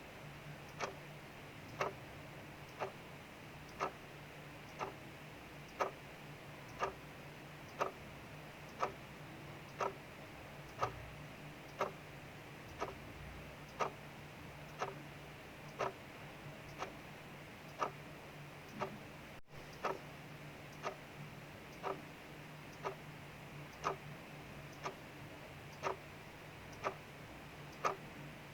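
Clock ticking steadily, about one tick a second, over a faint steady hiss of rain.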